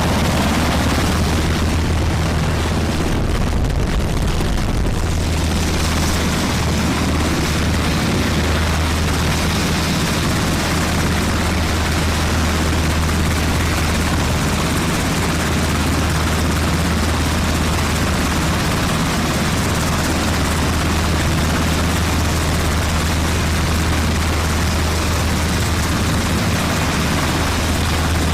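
Military helicopter running with steady, loud rotor and engine noise and a strong low hum.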